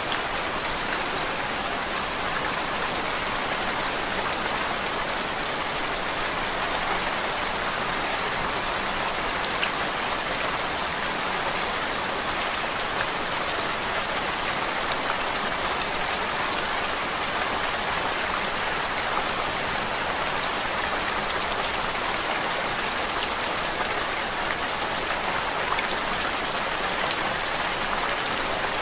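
Steady rain, an even hiss dotted with many fine ticks of drops.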